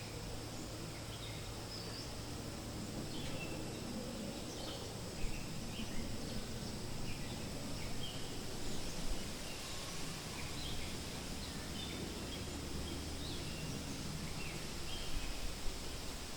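Forest ambience: a steady low rustle of wind with many short bird chirps scattered throughout, and a faint high steady hum typical of insects.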